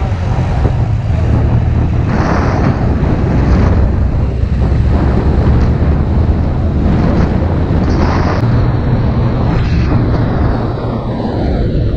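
Motorcycle engine running steadily while riding, with wind rushing over the microphone. Other vehicles swell past several times, and one passes with a falling pitch near the end.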